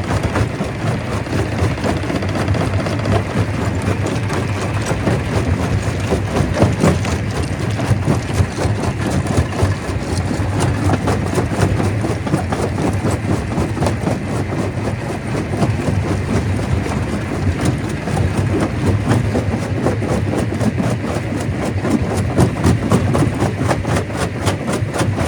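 Stone crusher running: a steady heavy machine drone with a dense, continuous clatter and knocking of rock being broken.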